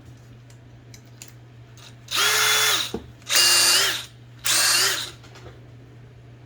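Small electric power tool run in three short bursts, each under a second, its motor pitch rising as it spins up and dropping as it stops.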